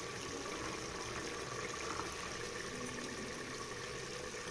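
Chicken biryani masala frying in an open aluminium pressure cooker, a steady sizzle.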